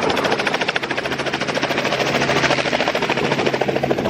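Helicopter running close by, its rotor blades chopping in a fast, even beat over a steady engine hum.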